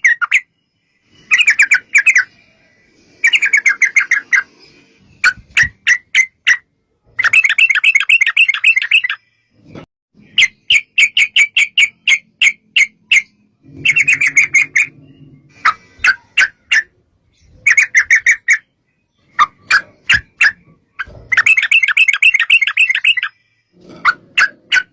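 Yellow-vented bulbuls (trucukan) singing: rapid bursts of bubbly chattering notes, some running together into long rolling trills, with short pauses between phrases.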